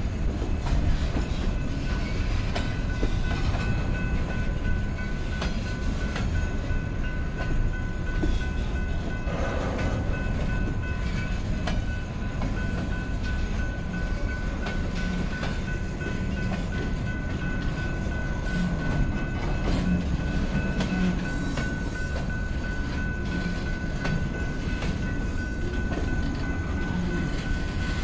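Freight cars of a slow New Orleans Public Belt freight train rolling past: a steady low rumble of steel wheels on rail with faint clicks at the rail joints. A thin, steady high tone runs over it from about two seconds in.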